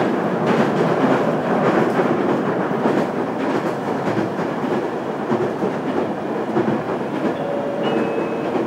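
Running noise heard from inside the cabin of a JR Kyushu 815 series electric multiple unit: the steady rumble of wheels on rail with faint rail-joint clacks. A faint steady whine appears briefly near the end.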